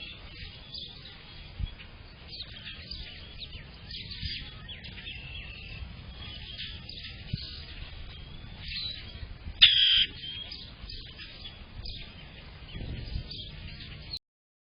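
Several backyard songbirds chirping and singing over each other, with one loud, close call about ten seconds in.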